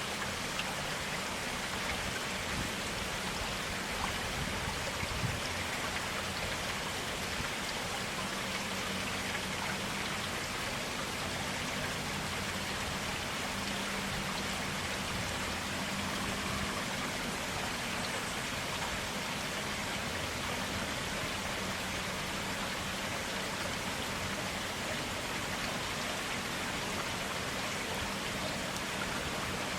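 Forest stream running steadily, an even, unbroken rush of flowing water.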